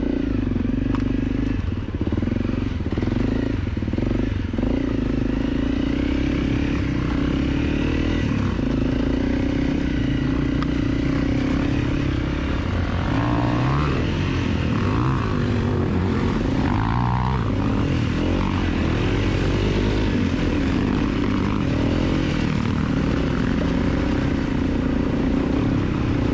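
250 cc dirt bike engine running steadily at fairly even revs while riding.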